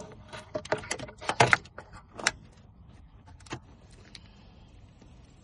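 Irregular metallic clinks and clacks of tools and parts being handled, a quick cluster in the first couple of seconds and a last one about three and a half seconds in.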